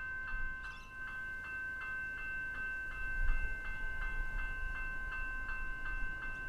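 Level crossing warning bell ringing, striking about three times a second with a steady metallic ring between strikes. A low rumble builds under it from about halfway through.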